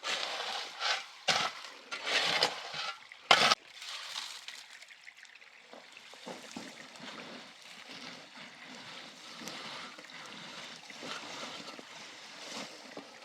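Water splashing and trickling: several loud splashes in the first few seconds, then a steadier, quieter trickle with small irregular sloshes.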